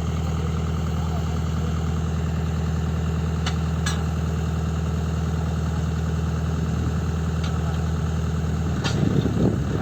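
Tata Hitachi Zaxis 120 excavator's diesel engine idling steadily, with two faint clicks about three and a half seconds in.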